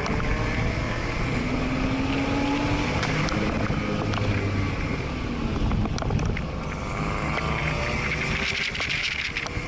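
Porsche flat-six engine heard from inside the cabin while being driven hard, its pitch rising and falling several times as it revs up and eases off, over steady road and tyre noise.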